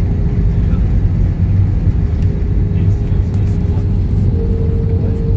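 Airliner cabin noise: a steady low rumble of the jet engines and airflow heard from inside the cabin, with a steady hum running through it and a second, slightly higher hum joining about four seconds in.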